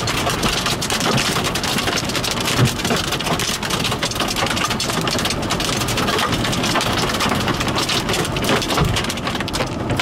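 Hail and rain pelting hard surfaces in a loud, steady clatter of many rapid impacts, with one harder hit a little over two seconds in.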